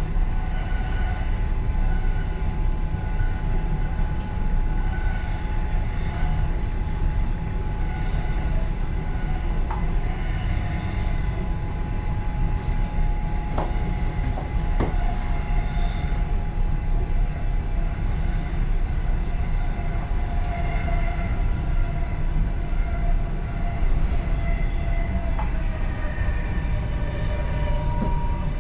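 Passenger train running steadily, heard from inside its last car: a continuous low rumble of wheels on rail with a steady whine and a few scattered clicks.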